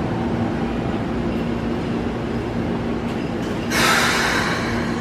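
Keikyu 600 series electric train standing at the platform, its equipment giving a steady hum. A sudden loud hiss of compressed air comes from the train about three and a half seconds in and fades over a second, typical of the air-operated doors or brakes working just before departure.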